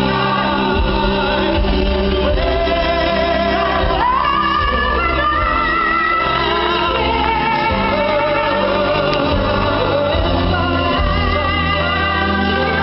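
Live pop ballad: a singer holds long notes with vibrato over band accompaniment, the voice sliding up to a higher note about four seconds in.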